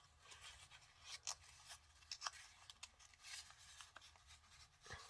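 Faint rustling and creasing of a sheet of paper being folded by hand, with a few soft, irregular crackles and scrapes.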